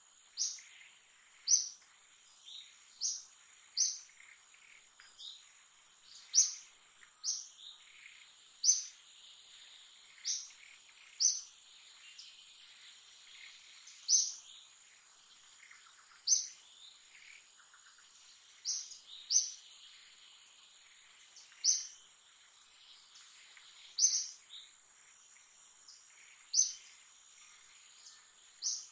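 A bird chirping over and over, short sharp high-pitched chirps at uneven intervals about every one to two seconds, over a steady high-pitched insect drone.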